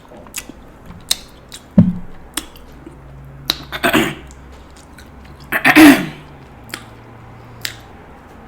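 Steamed king crab shell being cracked and pulled apart by hand: a run of sharp clicks and snaps, a loud knock about two seconds in, and two longer crackling bursts around four and six seconds in.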